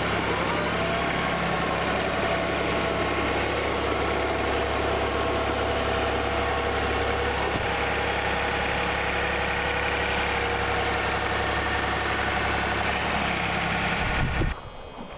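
Tractor engine running steadily at a constant speed, then cutting off abruptly near the end.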